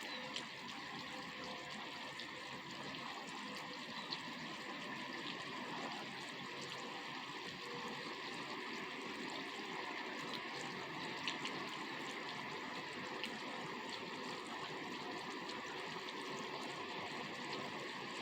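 Steady rain falling, an even hiss with scattered sharp ticks of single drops striking, louder a few times such as about four seconds in and about eleven seconds in.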